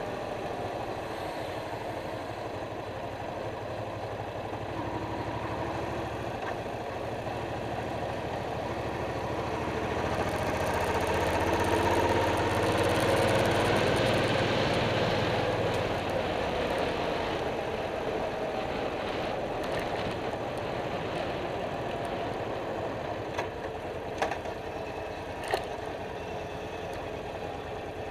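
Suzuki Boulevard C50's V-twin engine running under way, heard from the front of the motorcycle. Midway it gets louder and rises in pitch as the bike accelerates, then eases off; a few sharp clicks come near the end.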